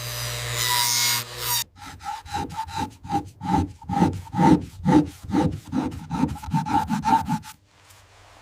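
A brief stretch of steady hissing noise cuts off, then rhythmic back-and-forth rubbing strokes follow, about three a second, with a slight ring to each stroke. They stop shortly before the end.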